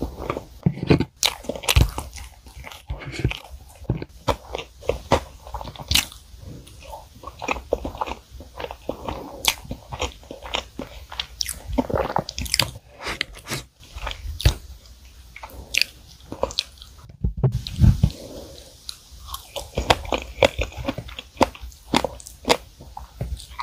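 Close-miked chewing and biting of chocolate sponge cake layered with chocolate cream and strawberries: wet mouth clicks and smacks, with sharp clicks all the way through.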